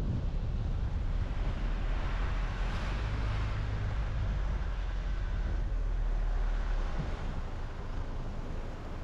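Car driving at road speed: steady low road rumble with tyre and wind noise, swelling slightly a few seconds in.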